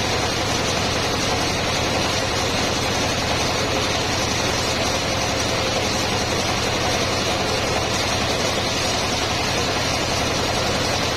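Homemade circular sawmill running steadily: its engine and spinning blade give a dense, even machine noise that does not let up.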